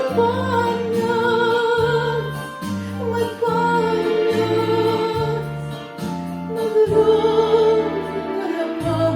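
A song: a singer holds long notes with vibrato over an accompaniment with a bass line that steps every half second or so.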